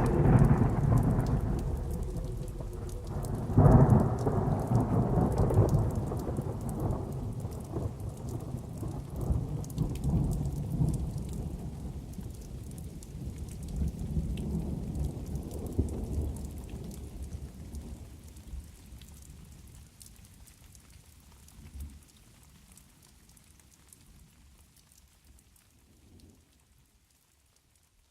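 Rolling thunder and rain: a low rumble under a steady crackling patter, loudest about four seconds in with a few smaller swells, then fading out gradually to near silence.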